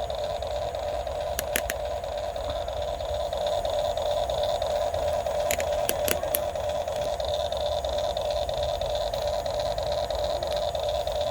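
Huina 1550 RC excavator's small electric motors and gearboxes running with a steady whine, with a few sharp clicks about a second and a half in and again around six seconds.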